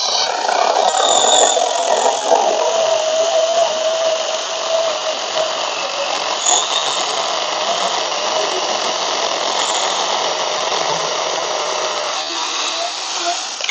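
Tomyvic 6-inch 21V cordless mini chainsaw cutting through a thick branch of about 5 inches: a steady electric motor and chain sound, with the motor note dropping slightly as it bogs under load. It eases off near the end as the cut finishes.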